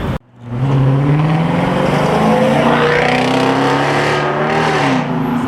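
A car engine accelerating. After a brief dropout at the start, its pitch climbs steadily for about three seconds, then drops back near the end.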